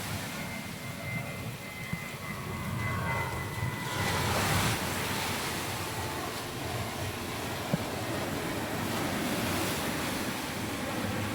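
Surf washing on the beach under the steady drone of a passing engine, which swells about four seconds in.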